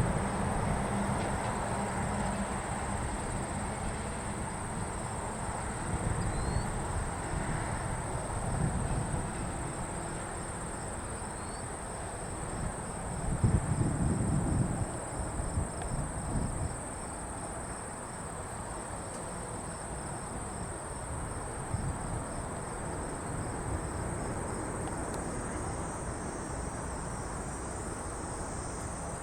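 Crickets chirping in a steady high trill, over a low rumble that rises and falls, loudest about thirteen to sixteen seconds in.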